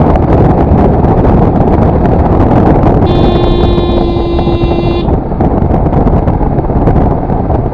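Steady wind and road rush on a moving motorcycle. About three seconds in, a vehicle horn sounds once, held for about two seconds.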